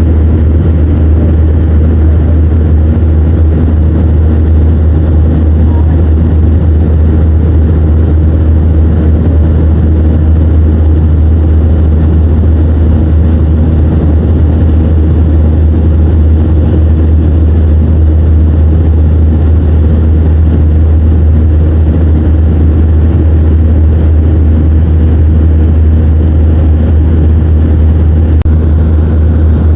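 Loud, steady low drone of a Boeing 737-500's CFM56-3 turbofan engines and airflow heard inside the passenger cabin.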